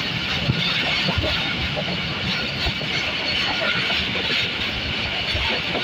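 Passenger train running at speed, heard from on board: a steady rushing hiss of air and running noise, with irregular low knocks of the wheels on the rails.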